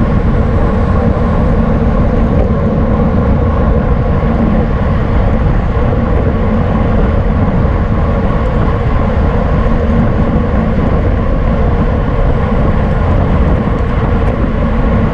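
Steady rush of wind buffeting the microphone of a camera riding in a bicycle criterium, with road noise beneath it.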